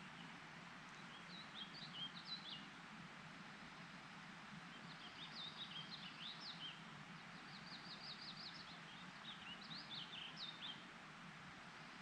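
A songbird singing four short phrases of quick, high chirps over a steady background hiss.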